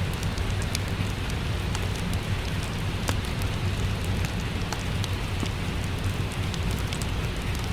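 Steady rain with a deep rumble underneath, mixed with the scattered sharp crackles of a wood fire burning in a fireplace.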